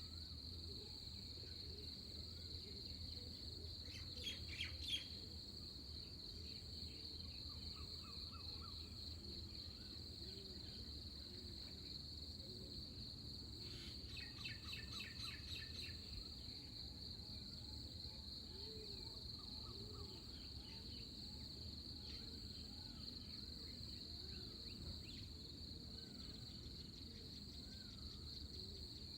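Pre-dawn countryside ambience: a steady high-pitched insect trill runs throughout, with scattered bird chirps over a low background rumble. There are two brief flurries of rapid repeated bird notes, one about four seconds in (the loudest moment) and one around fourteen seconds in.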